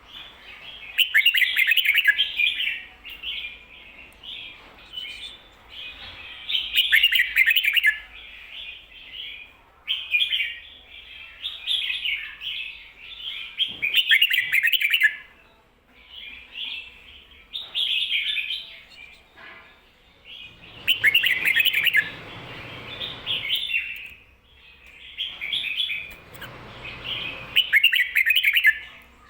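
Red-whiskered bulbul singing loud, bubbly warbled phrases, about seven in a row, each a second or two long with short pauses between. This is the doubled 'kho-ta-ra' song type used to teach other bulbuls.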